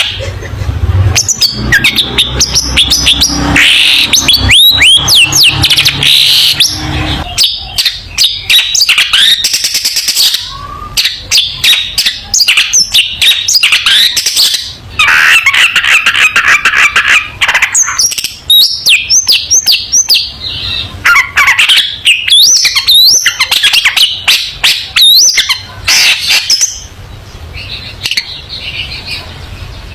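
Long-tailed shrike (cendet) in full song: a long, varied run of rapid harsh chattering notes, clicks and short whistled phrases with brief pauses between bursts.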